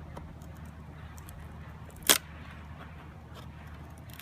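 One sharp wooden crack about halfway through as part of a bee package is pried loose, the kind of cracking that agitates the bees. A steady low hum runs underneath.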